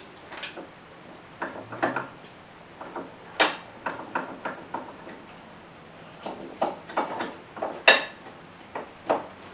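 Irregular clinks and knocks of metal tools and parts being handled on a workbench, with two sharper knocks, one about a third of the way in and one near the end.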